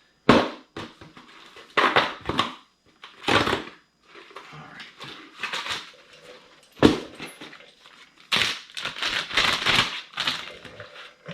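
Small plastic parts bags being handled and crinkled in irregular bursts, with a sharp knock about seven seconds in.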